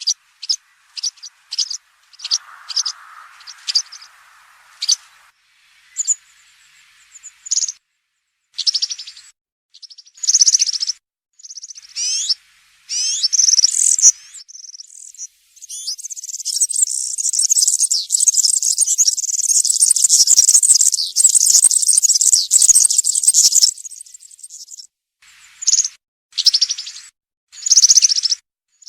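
European serin singing in wild-style song: a run of short, high-pitched chirps and brief phrases, then a long, fast jingling song phrase about halfway through, followed by more short phrases.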